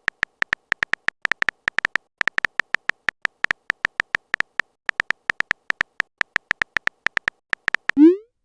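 Rapid, uneven string of short electronic beeps, all at the same pitch, like a text-typing sound effect. A quick rising swoop comes near the end.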